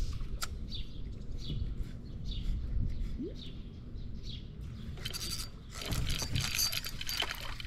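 Birds chirping over and over above a steady low rumble. About five seconds in, a louder crackling noise with many fine clicks and a splashy hiss sets in.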